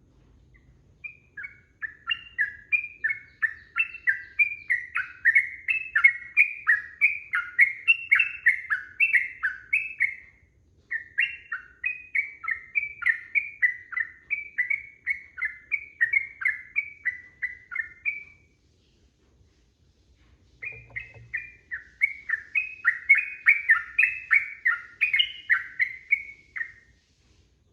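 Yellow-vented bulbul (trucukan) singing long runs of rapid, chattering notes, about three a second, with two short breaks.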